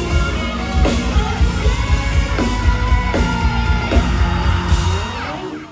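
Post-hardcore band playing live, recorded on a phone: a steady pounding drum beat and heavy bass under a sung, at times yelled lead vocal. The song ends and the band cuts off just before the end.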